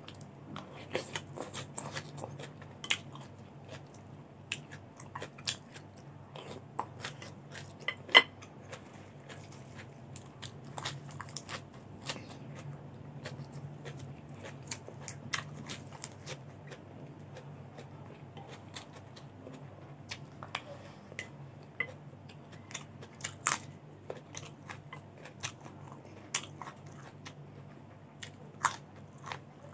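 Crisp crunching and chewing of raw vegetables (cucumber, long beans and lettuce), as a scatter of sharp bites close to the microphone. The loudest bite comes about eight seconds in.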